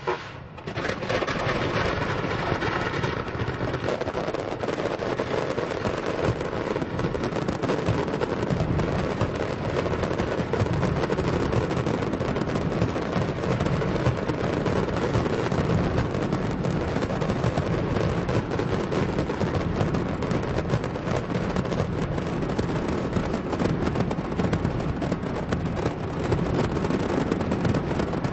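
Fireworks display in full barrage: a dense, continuous mass of bangs and crackles, the separate explosions merging into one steady rumble after a brief lull in the first second.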